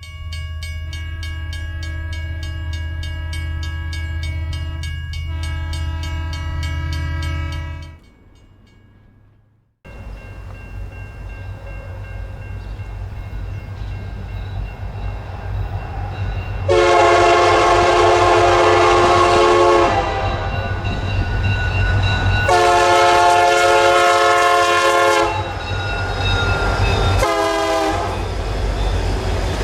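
Diesel freight train approaching with a rising rumble, its locomotive air horn sounding two long blasts, a short one, then another long one starting near the end: the standard grade-crossing signal. Before that, a steady train drone with a held tone cuts off about eight seconds in.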